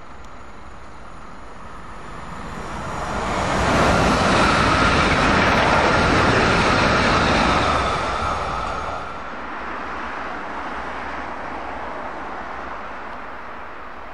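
PKP Intercity Pendolino (ED250) electric train passing at speed: a rush of wheels and air that swells over about two seconds, stays loud for about four, then drops away sharply about nine seconds in.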